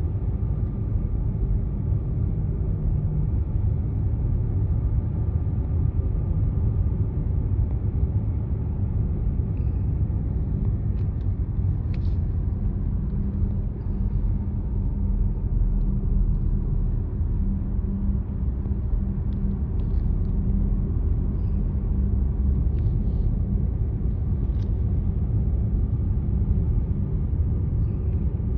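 Steady low rumble of a car being driven: road and engine noise, with a faint engine hum under it and a few faint clicks.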